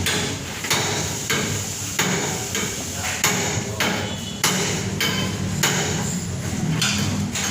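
A hammer striking metal in a steady rhythm, about a dozen sharp blows roughly every 0.6 s, each with a short metallic ring.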